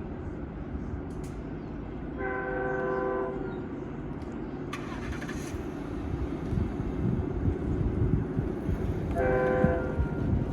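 Freight locomotive's air horn sounding two short blasts of about a second each, roughly seven seconds apart, over the steady low rumble of the passing train. A brief hiss comes between them.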